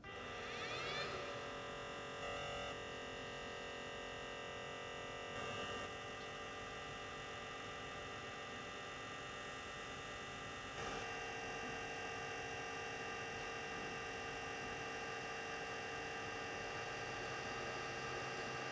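A small electric motor spins up with a rising whine, then runs with a steady buzzing hum that steps up a little in level about eleven seconds in.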